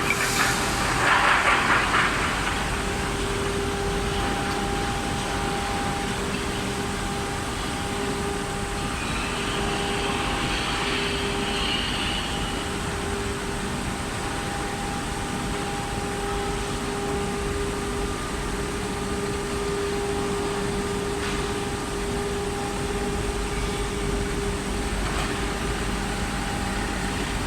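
Induction melting furnace running in a foundry workshop: a steady hum with a constant pitched tone over a dense rumble of noise, with a brief louder burst of noise in the first couple of seconds.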